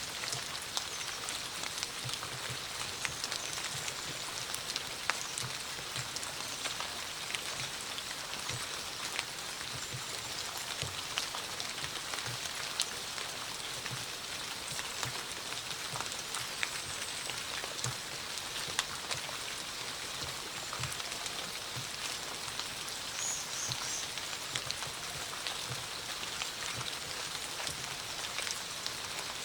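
Steady rain falling: an even hiss with many separate drops ticking and tapping irregularly on nearby surfaces.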